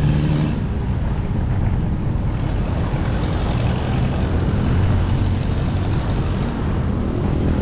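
Steady road noise while riding a bicycle: wind rushing over the action-camera microphone, with the low hum of a motor vehicle's engine.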